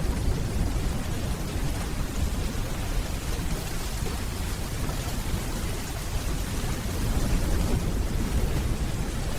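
Steady rainfall with a low, continuous rumble of distant thunder underneath.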